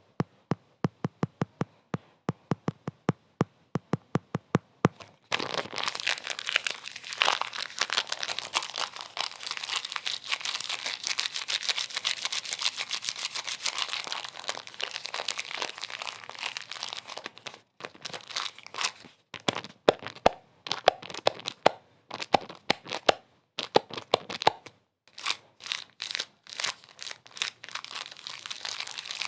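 About four sharp taps a second for the first five seconds, then dense crinkling and crumpling that breaks into short stop-start bursts over the last third.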